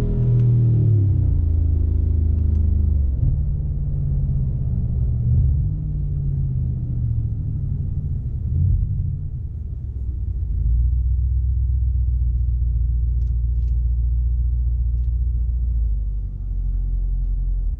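Mercedes-AMG G63's twin-turbocharged 4.0-litre V8 and exhaust easing off, its pitch falling over the first couple of seconds, then settling into a low, steady rumble at low speed.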